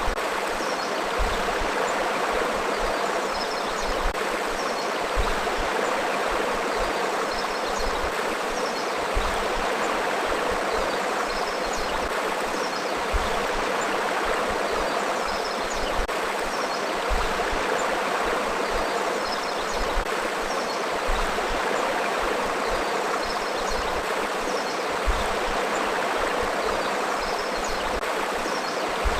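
A river flowing steadily over rocks, an even rushing and burbling of water.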